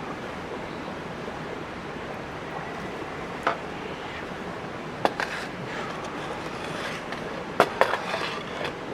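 Campfire burning with a steady hiss and a few sharp pops and crackles, most of them near the end.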